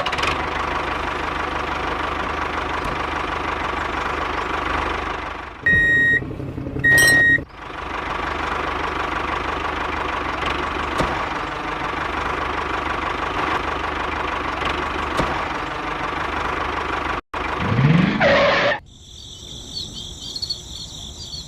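Small electric motor running steadily with a constant whine. About six and seven seconds in it is broken by two short high beeps. It stops suddenly near seventeen seconds, followed by a rising swoosh and a brief electronic jingle.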